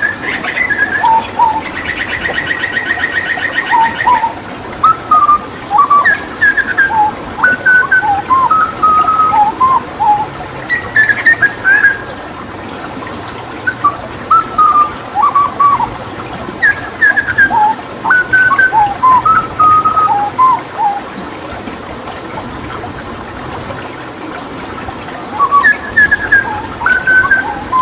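Hooded butcherbird singing: bouts of short, clear fluting notes that leap up and down in pitch, with pauses between bouts and a rapid buzzing trill about two seconds in. A steady hiss of running water lies underneath.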